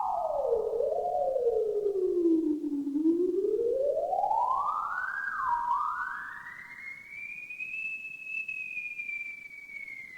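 Eerie, theremin-like electronic tone wailing and sliding in pitch. It swoops down to a low note about three seconds in, then climbs to a high held pitch that slowly sinks, with an echo trailing each glide.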